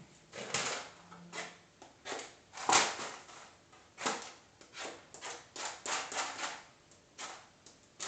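Matches being struck against the side of a matchbox again and again: a run of short, scratchy scrapes at an uneven pace, the loudest about three seconds in.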